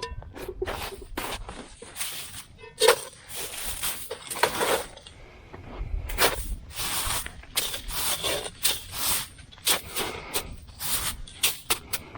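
Snow crunching and scraping in an irregular run of short strokes as it is scooped up to be melted down for water.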